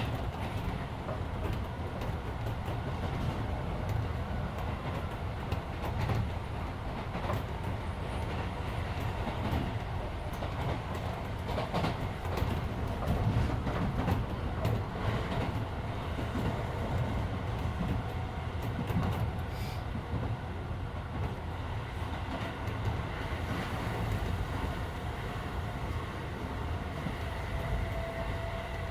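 Interior running sound of a Keisei 3400-series electric train car at speed: a steady low rumble of wheels on rail with frequent clicks from rail joints, and the car's air conditioning running. A faint steady tone comes in near the end.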